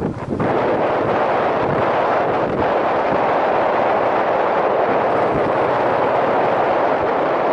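Steady, loud wind rush buffeting a helmet-mounted microphone on a moving Yamaha SRX400 motorcycle, with the bike's running mixed in underneath.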